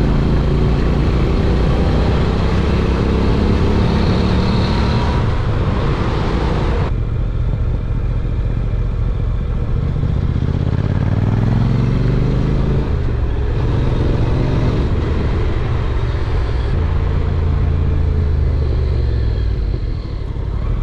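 Honda NC750X parallel-twin engine running steadily while the motorcycle is ridden, with a rushing hiss over it. The hiss drops away abruptly about seven seconds in. The engine's pitch falls and then rises again around the middle as the speed changes.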